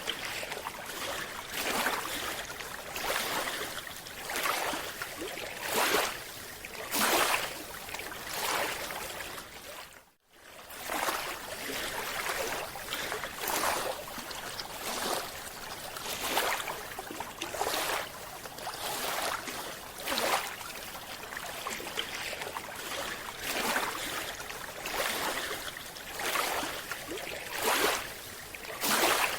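Water sloshing and rushing in repeated surges every second or two, broken by a brief cut to silence about ten seconds in.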